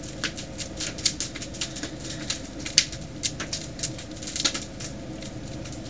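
A blast-damaged microwave oven running, with a steady hum and irregular sharp crackling and snapping, several snaps a second, from its wrecked, smoking innards.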